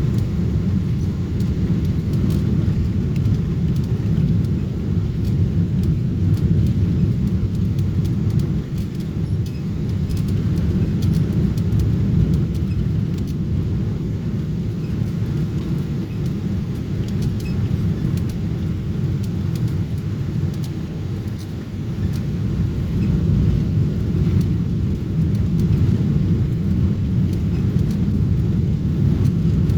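Steady low rumble of cabin noise aboard a Boeing 777-300 airliner, from its engines and airflow. A few faint ticks sound over it.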